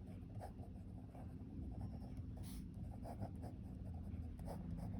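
A pen writing out working by hand: quick, irregular scratching strokes over a low steady background hum.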